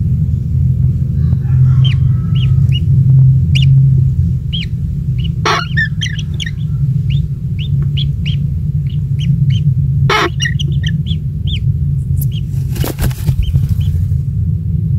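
A small bird's short high chirps, repeated about two to three a second, over a loud steady low rumble, with a few sharp knocks or rustles.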